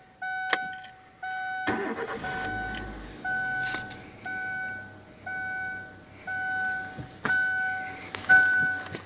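2003 Kia Spectra GSX's 1.8-litre four-cylinder engine cranks briefly and catches a little under two seconds in, then settles to a steady idle. Through it a warning chime beeps about once a second.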